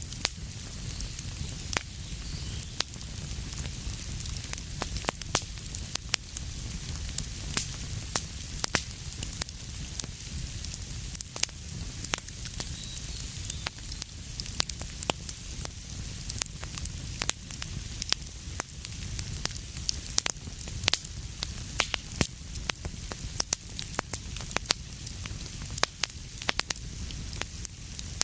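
A fire burning in a fireplace, crackling steadily: frequent irregular sharp pops and snaps over a soft hiss and a low rumble.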